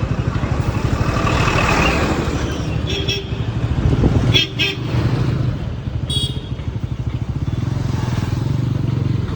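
Single-cylinder engine of a Bajaj NS200 motorcycle running steadily while riding, with road and wind noise. A few short high-pitched beeps come around the middle.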